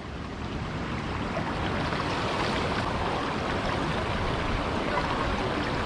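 Steady rushing of water flowing from a dam spillway, an even hiss without pause.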